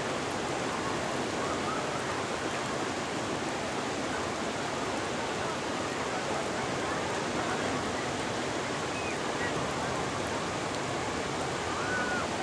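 Ocean surf: a steady, even rushing wash of breaking waves with no single crash standing out.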